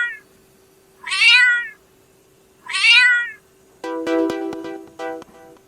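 A cat meowing, two long meows about a second and a half apart, each falling in pitch at the end. Keyboard music starts about four seconds in.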